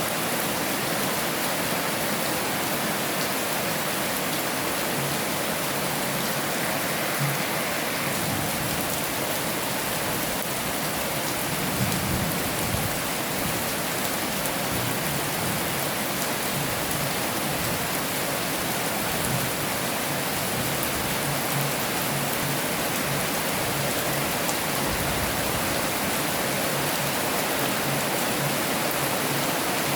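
Heavy rain falling steadily in a dense, even hiss, with a brief low rumble about twelve seconds in.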